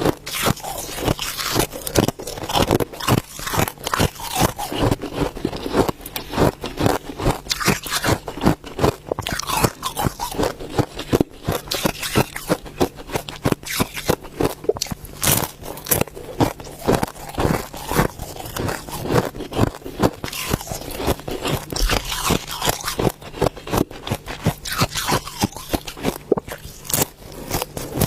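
Ice being bitten and chewed close to the microphone: a steady run of sharp crunches, several a second, with scraping and crackling between bites.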